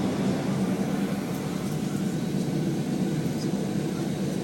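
Steady low cabin hum inside a Boeing 737-800 on the ground after landing, the engines and cabin air running without change.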